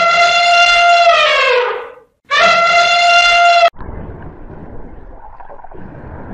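An elephant trumpeting twice, a long brassy call that drops in pitch at its end, then a shorter call held steady. Just under four seconds in it gives way abruptly to a steady, muffled underwater wash.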